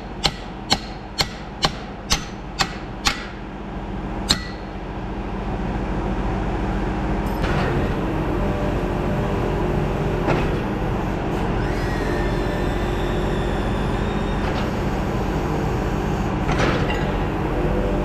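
Hammer blows on metal, about two a second, eight in all, while a hydraulic cylinder is fitted back onto a mulch finisher. From about five seconds in, a steady mechanical running noise takes over.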